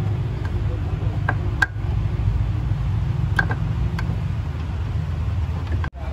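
A vehicle engine idling steadily as a low drone, with a few light clicks and taps over it.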